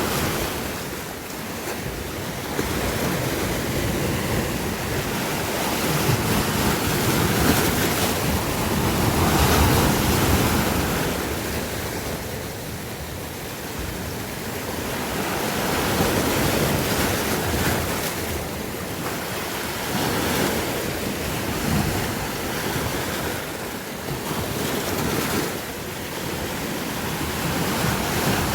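Sea waves washing in, swelling and easing every five or six seconds, with wind buffeting the microphone.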